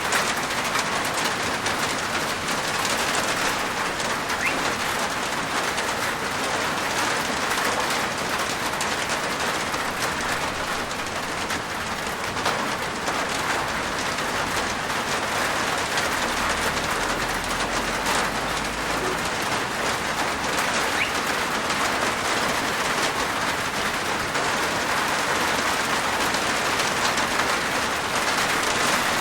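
Steady rain falling on a rooftop, a dense, even patter of drops.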